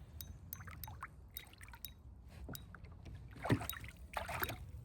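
Handling noise from unhooking a trout in a kayak: scattered light clicks, then two brief splashy swishes a second apart near the end, over a low steady rumble.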